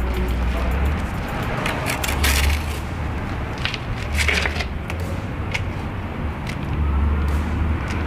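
A steel bricklaying trowel scraping and tapping on brick and mortar: a string of short scrapes and clicks, the longest about 2 and 4 seconds in, over a low steady rumble.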